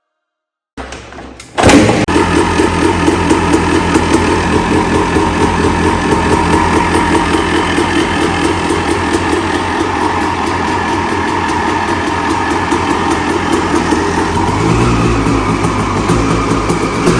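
Honda CR250 two-stroke single-cylinder engine catching suddenly about a second and a half in, then running steadily with a fast, even pulse. Its note shifts slightly lower near the end.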